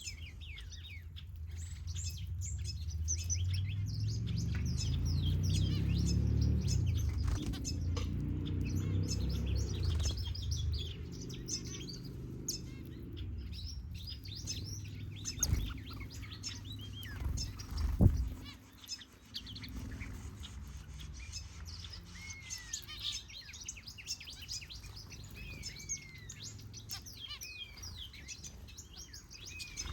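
Many small aviary birds, finches and softbills, chirping and calling with short high notes and whistles. A low droning rumble swells and fades over the first ten seconds or so, and a couple of sharp knocks stand out, the loudest about eighteen seconds in.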